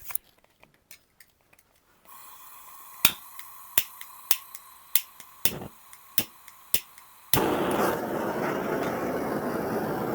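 A series of sharp clicks, roughly two a second, then about seven seconds in a steady rushing blow starts and keeps running: a heat gun switched on to warm the fork leg before seating the new fork seal.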